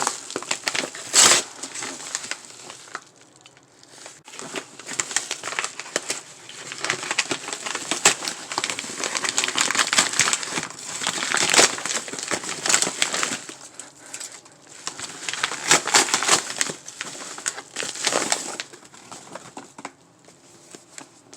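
Product packaging being opened by hand: wrapping crinkling and rustling in irregular bursts, quieter near the end.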